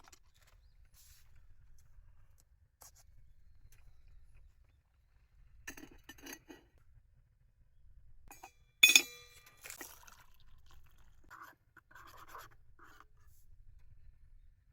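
Cookware and utensils being handled: small clicks and scrapes, with one sharp metallic clink about nine seconds in that rings briefly, followed by a few short scrapes.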